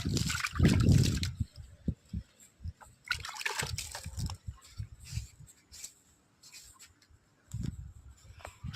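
A dog feeding: irregular wet slurping and sloshing with soft low thumps.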